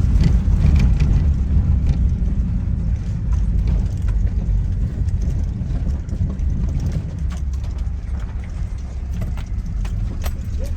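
Moving van heard from inside the closed cabin: a steady low engine and road rumble, with scattered small rattles and knocks.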